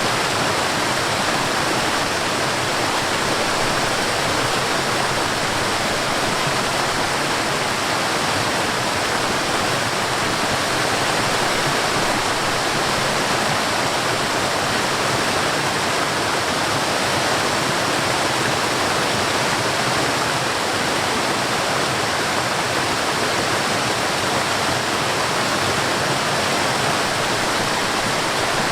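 Mountain stream and waterfall rushing steadily, a dense, even sound of falling and flowing water.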